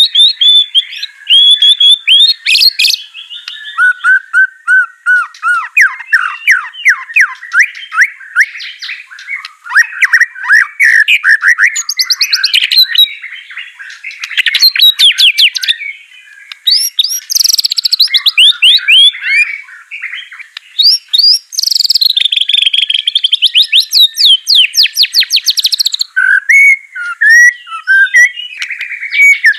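White-rumped shama (murai batu) in full song: a fast, varied stream of loud whistles, trills and rapid sliding chatter, with a couple of short breaks midway.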